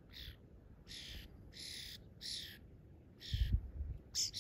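A bird calling repeatedly: about six short, harsh calls in quick succession. There is a low thump about three seconds in.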